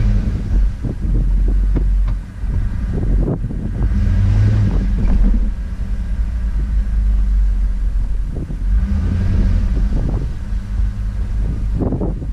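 Chevrolet Silverado pickup's engine running under load on a rough dirt trail, its low rumble swelling with the throttle twice, about four and nine seconds in. Scattered short knocks and rattles come through over it.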